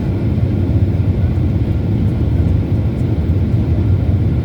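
Steady deep rumble of a Boeing airliner's engines and airflow heard from inside the passenger cabin during descent.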